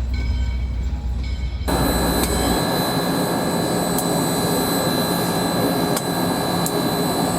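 Train running by: a steady rushing noise carrying a few faint steady tones, which comes in abruptly about two seconds in, after a low rumble.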